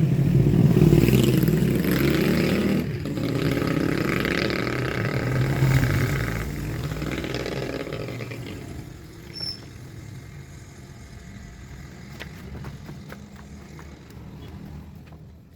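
A motor vehicle's engine running close by, loud for the first several seconds and then fading away over the second half.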